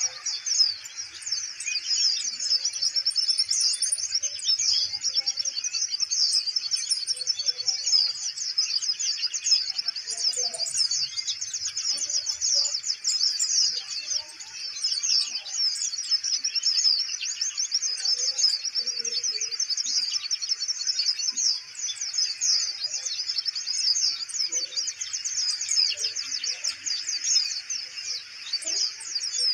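Kolibri ninja (purple-throated sunbird) singing nonstop: a rapid, high-pitched twittering run of chirps with no pauses.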